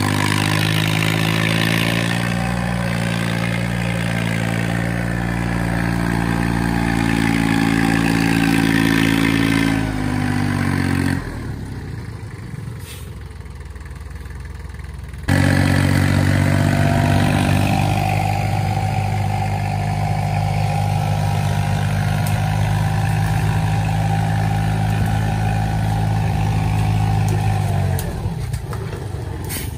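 Tractor engine running steadily. It drops away suddenly about eleven seconds in, comes back just as suddenly some four seconds later, and stops near the end.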